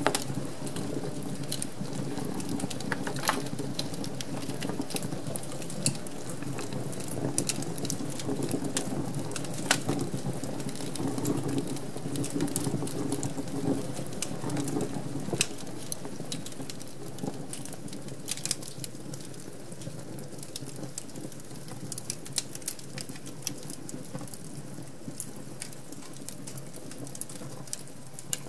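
Wood fire burning in a fireplace, crackling steadily with frequent sharp pops and snaps over a low rumble of flames.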